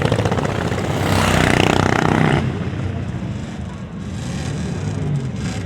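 Vintage motorcycle engines running as bikes pass close by. A loud pass in the first couple of seconds drops off sharply about two and a half seconds in, leaving quieter engines running.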